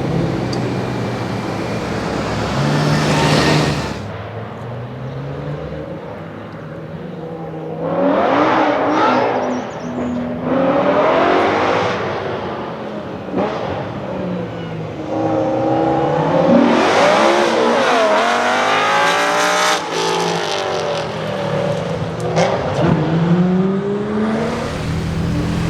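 BMW performance car engines revving and accelerating hard, the pitch climbing and falling back in several runs, as across gear changes. The sound changes abruptly about four seconds in.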